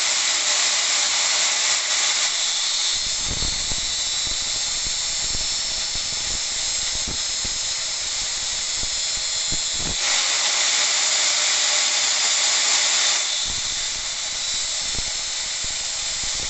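Angle grinder grinding the end of a steel drill bit: a steady, high hiss and squeal. Irregular low knocks come in about three seconds in and again near the end.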